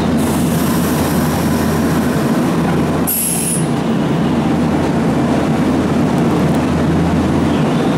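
Nankai stainless-steel electric commuter train at a station platform: a steady rumble and hum of the train's running gear and equipment, with a brief high hiss about three seconds in.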